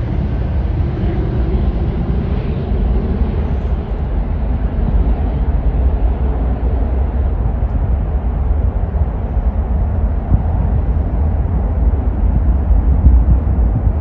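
Departing airliner's jet engines rumbling as it climbs away: the high hiss fades over the first few seconds, leaving a steady deep rumble.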